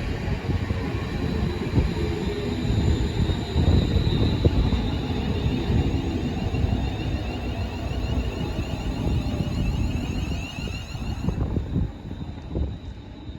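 A train running past, its rolling noise with frequent small knocks, dying away sharply near the end.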